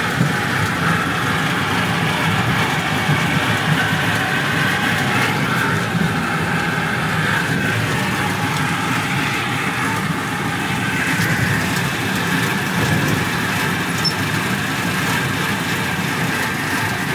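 Small park train running steadily along its track: an even, unbroken rumble of the train in motion, heard from an open passenger car.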